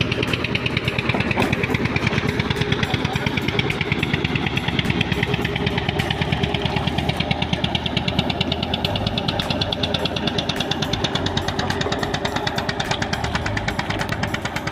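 An engine running steadily at a constant speed, with a fast, even knocking pulse.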